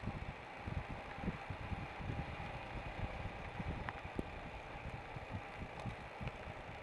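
Royal Enfield Himalayan single-cylinder motorcycle running on the move, heard through steady riding noise with uneven low thumps of wind buffeting the microphone.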